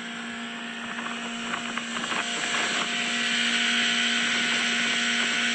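Johnson four-cylinder outboard boat motor running steadily. It grows louder over the first few seconds, then holds.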